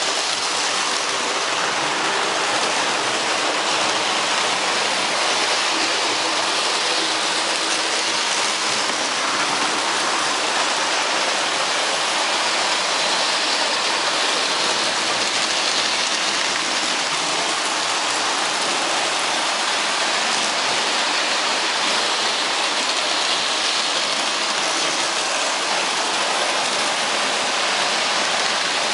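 Steady, even rushing noise at a constant level, with no pitch, knocks or rhythm.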